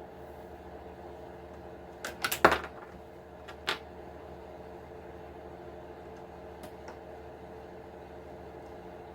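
Sharp clicks and knocks of small hard parts and tools being handled while an RC truck is taken apart. A quick cluster of them comes about two seconds in, then a single click a second later, over a steady hum.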